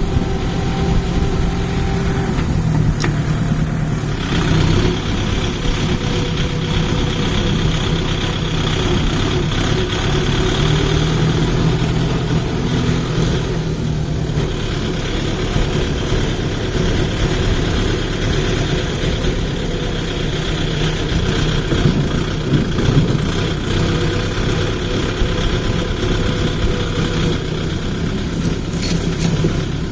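Tractor engine running steadily, with small rises and falls in pitch.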